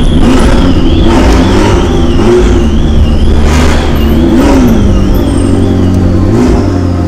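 Sports car engines revving and running, their pitch rising and falling a few times, with a wavering high tone on top that stops about six seconds in.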